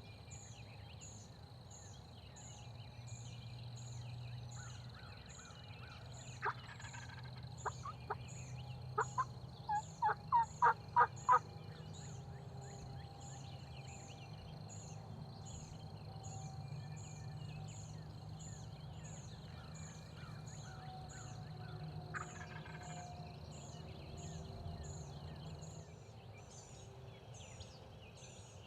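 Wild turkey calling: a run of short, sharp yelps that come closer together and louder, six loud ones about ten seconds in, and one more call later. A faint high chirp repeats about twice a second throughout.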